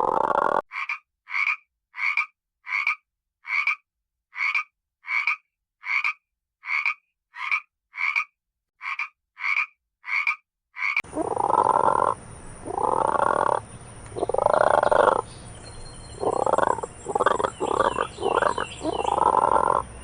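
Frogs calling. First comes a regular series of short, high calls, about one and a half a second against silence. About halfway through, a different chorus takes over: longer, deeper croaks over a background hiss, with a quicker run of calls near the end.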